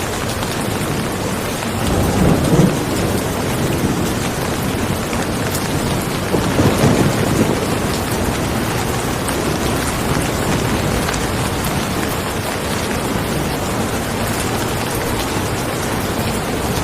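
Steady heavy rain, with two low rumbles of thunder rolling in, one about two seconds in and another around seven seconds.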